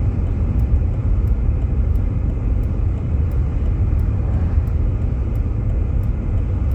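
Steady low rumble of a Jeep Grand Cherokee driving on a snow-covered road, heard from inside the cabin: tyre and road noise with the engine underneath.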